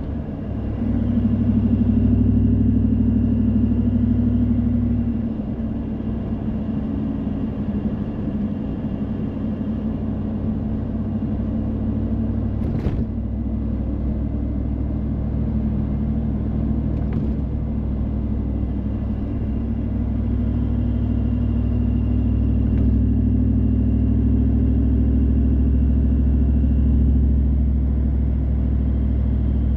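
Car driving in the rain: a steady engine and tyre rumble on wet road, swelling briefly in the first few seconds as it speeds up, with two short ticks near the middle.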